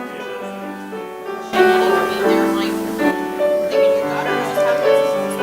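Prelude music on a keyboard instrument, slow held chords; it becomes louder and fuller about a second and a half in.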